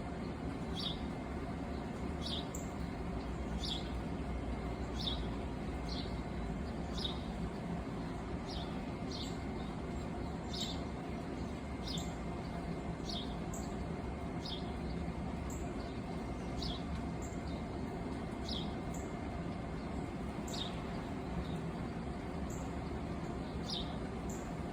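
A bird's short falling chirps repeated roughly once a second, with fainter higher notes in between, over a steady low background rumble.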